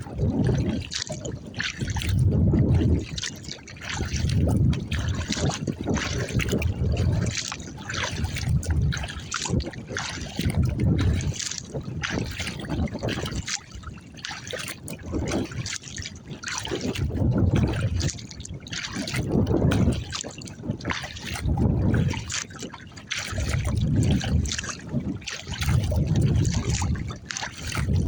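Steady kayak paddling: water trickling and splashing off the paddle blades with each stroke, about one stroke every two seconds, with a low rumble swelling on each stroke.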